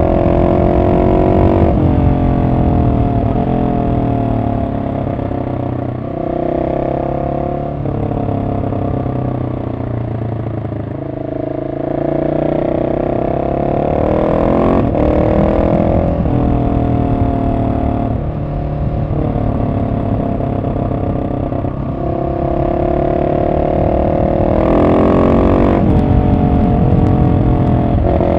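Husqvarna 701 SM's single-cylinder engine through a decatted Arrow aftermarket exhaust, revving up and down over and over as the bike is ridden through the gears, the pitch climbing on the throttle and then falling off on the overrun.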